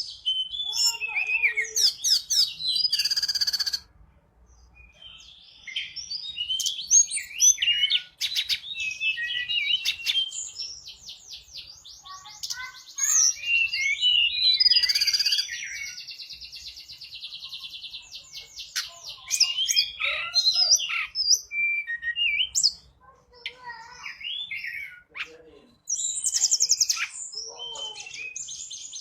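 Tledekan gunung (Sunda robin) singing in full voice: quick, varied high whistles and chirps broken by fast rattling trills, with short pauses about four seconds in and near the end.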